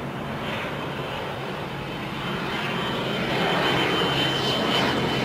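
Jet airliner engines at takeoff power, the noise growing steadily louder, with a high fan whine coming in about three and a half seconds in.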